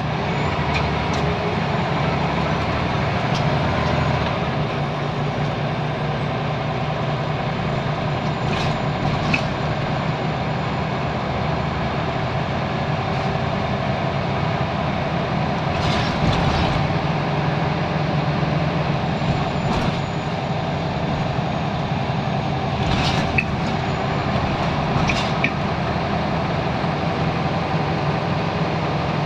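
Scania L94UB Wright Solar bus's diesel engine running steadily with a constant drone, and a few brief sharp noises at intervals over it.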